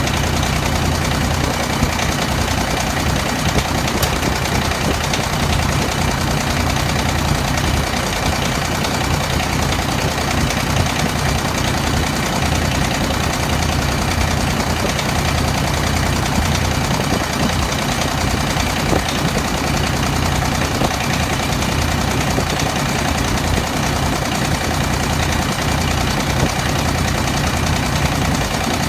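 Kubota three-cylinder diesel engine idling steadily.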